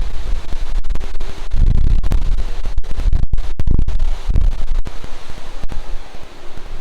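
Tropical-storm wind gusting and buffeting the microphone: a loud, deep rumble that swells in the middle seconds and eases toward the end.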